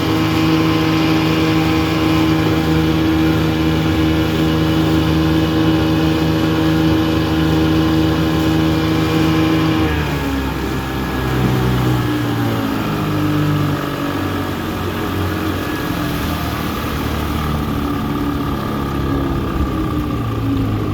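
1984 Evinrude 6 hp two-cylinder two-stroke outboard running steadily at full throttle on a speed run. About halfway through, the engine note falls as it is throttled back, then runs unevenly at a lower speed.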